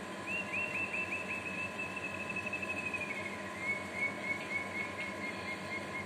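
A bird calling in a rapid run of short repeated notes, about five a second, which step down slightly in pitch about halfway through and carry on at the lower pitch, played back through a speaker over a steady hum.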